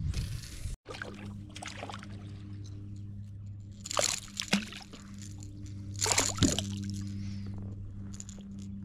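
Water sloshing and splashing twice, about four and six seconds in, over a steady low hum.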